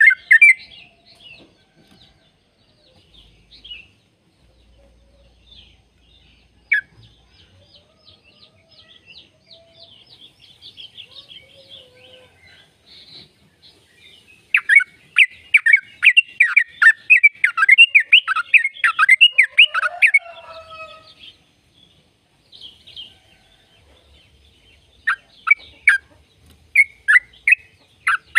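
Yellow-vented bulbul (trucukan) singing: soft scattered chatter, then a loud, fast roll of repeated down-slurred notes lasting about six seconds midway, and another run of sharp notes near the end.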